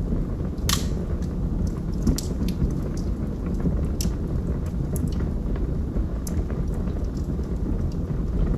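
Wood fire burning in a fireplace: a steady low rumble of flames with scattered crackles and pops, the sharpest one just under a second in.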